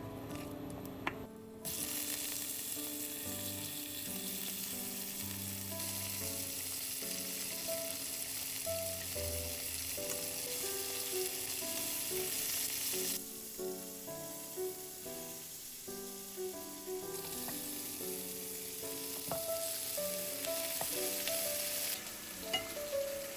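Food sizzling in a frying pan, a steady hiss that cuts out abruptly about halfway through and comes back a few seconds later, over soft background music.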